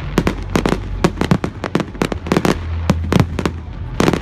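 Fireworks going off in rapid succession: an irregular string of sharp bangs and cracks, about four or five a second, over a steady low rumble.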